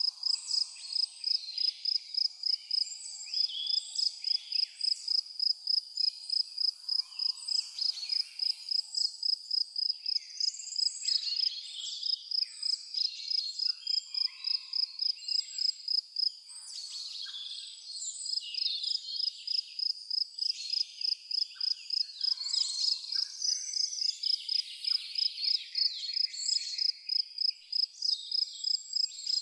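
A cricket chirping in a steady rhythm of about three chirps a second, stopping briefly about seventeen seconds in, while many birds sing and call at once.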